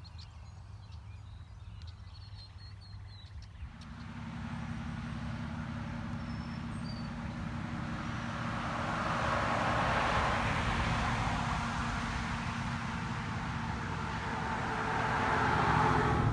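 A few faint bird chirps over a quiet background, then about four seconds in, a car's engine and road noise come in suddenly and run steadily, swelling near the middle and again near the end.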